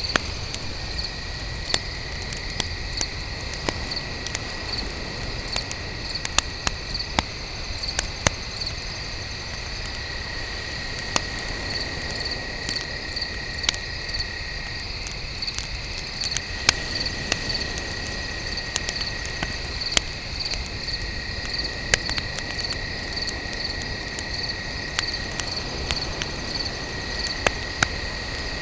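Crickets chirping steadily in a continuous pulsing trill, over a wood campfire crackling with frequent sharp pops.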